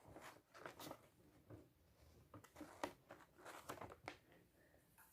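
Near silence: room tone with a few faint, scattered rustles and light clicks.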